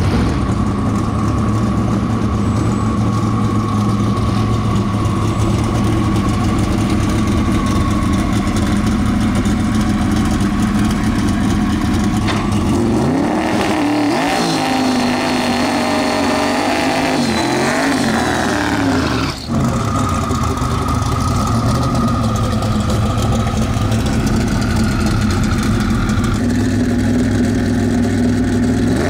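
Twin-turbo LSX V8 of a C5 Corvette drag car idling, then revving hard for about six seconds midway in a burnout, with a high turbo whine, before settling back to idle.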